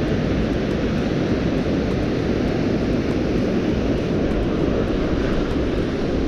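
Strong gusting wind buffeting the microphone: a loud, steady low rumble with no break.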